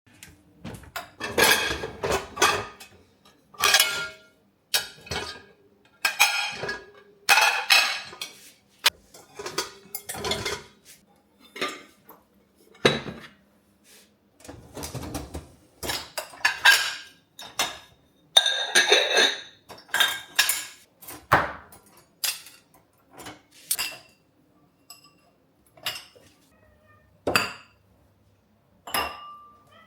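Dishes and cutlery being handled and set down: an irregular string of clatters and clinks, some ringing briefly.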